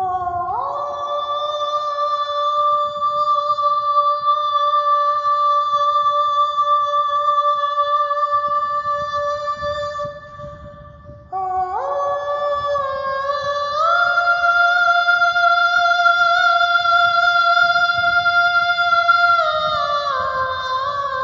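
Wordless sung vocal chord, high voices holding long 'aah' notes. It is used as a vocal background. One chord slides up into place and is held for about ten seconds. It fades, and a second chord slides in, steps higher a couple of seconds later, then steps down near the end.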